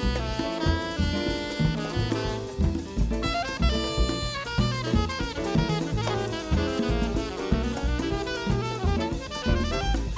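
Live small-group jazz: a saxophone plays a busy melodic line over a drum kit, with low bass notes underneath.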